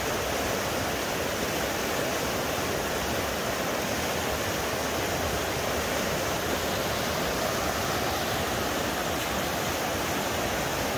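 Steady rushing of a river's flowing water, an even, unbroken noise.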